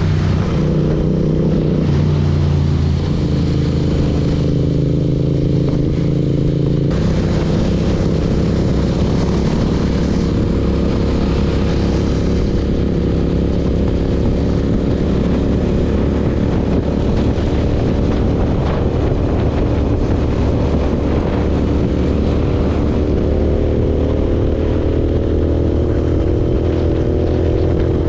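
BMW S1000RR sport bike's inline-four engine running steadily while under way, its pitch drifting with the throttle and rising near the end, with wind rushing over the microphone.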